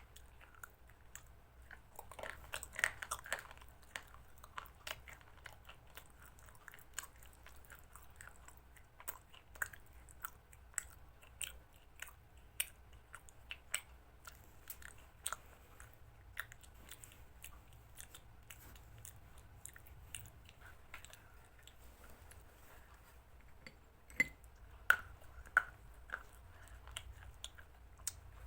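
A person chewing and biting chicken salad close to the microphone: irregular short, sharp mouth clicks and crunches, busiest early on and again near the end.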